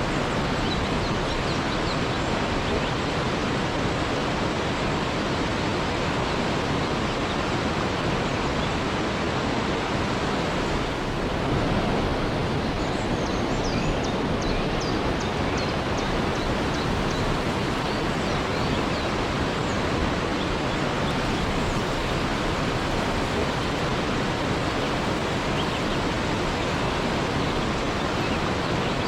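Waterfall rushing steadily. Faint high chirps come briefly about halfway through.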